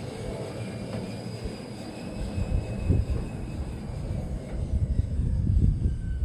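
Woodland Mills HM126 band sawmill running on its three-phase electric motor, with a faint steady whine that fades about three and a half seconds in. Irregular low knocks and bumps come in the second half.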